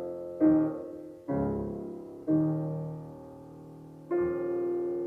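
Piano playing a solo interlude in a voice-and-piano romance: four heavy chords struck one after another, each left to ring and fade before the next.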